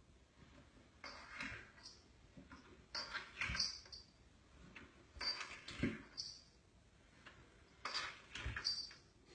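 Faint, rhythmic breathing: a soft, noisy in-and-out breath about every two and a half seconds, four times.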